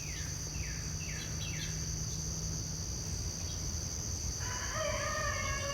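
Birds calling over a steady high insect drone. One bird gives quick downward-sliding chirps, about two a second. A little past the middle a busier, more complex call joins in.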